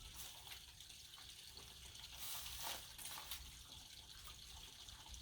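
Faint trickling, dripping water.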